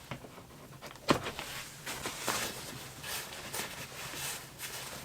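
Rustling and handling noises, irregular scrapes and rustles, with a sharp knock about a second in.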